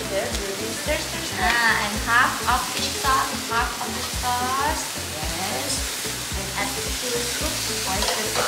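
Food sizzling in a pan on a gas burner as it is stir-fried with a wooden spatula, a steady frying hiss throughout.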